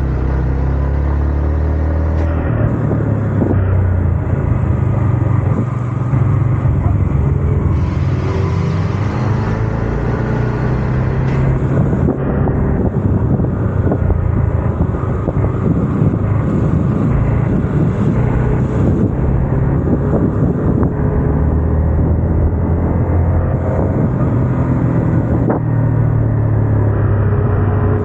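Yamaha MT-15's single-cylinder four-stroke engine and exhaust while riding, its pitch rising and falling several times as the speed changes, with wind rushing past the microphone.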